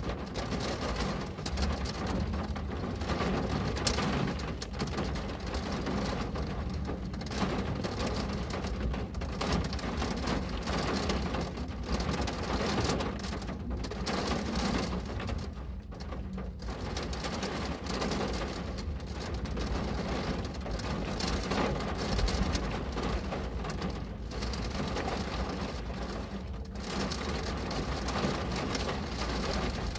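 Steady rain pattering on a window, a dense even hiss with a constant low rumble underneath and small irregular swells in level.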